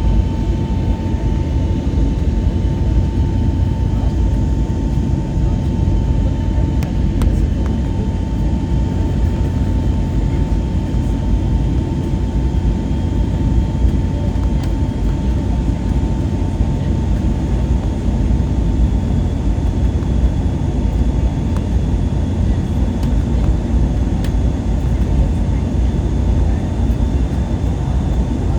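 Airbus A320neo cabin noise in flight: its Pratt & Whitney PW1100G geared turbofans and the airflow make a steady, loud rumble with a constant whine over it.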